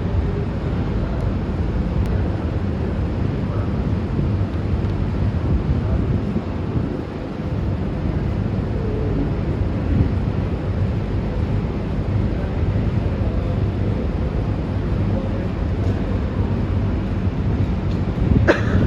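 Steady low rumble of a vehicle running. A short knock or clatter comes near the end.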